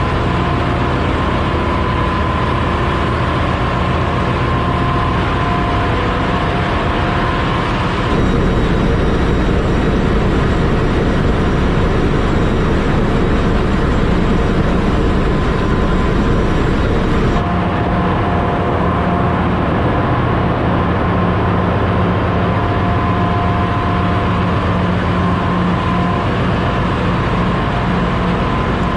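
Ship's engine-room machinery running: a loud, steady din of diesel engines and auxiliaries, with a constant low hum and a whine. The sound changes abruptly twice, about eight seconds in and again past the middle.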